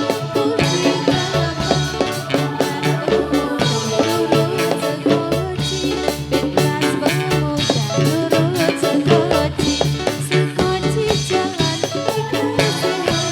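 Live band playing an instrumental passage: a melody over a steady drum and percussion beat, with no singing.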